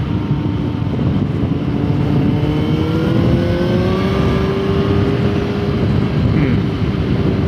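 Yamaha motorcycle engine pulling under hard acceleration, its pitch rising steadily for about five seconds and then holding, with heavy wind noise on the riding microphone.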